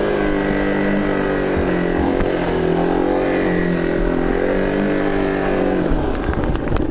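A motor vehicle engine running at high revs, its pitch wavering up and down slightly, then dropping away about six seconds in.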